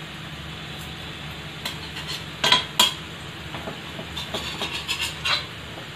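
Oil sizzling steadily around a rava-potato tikka shallow-frying on low heat in an iron pan. A metal spatula clinks and scrapes against the pan, twice sharply about two and a half seconds in, then in lighter taps.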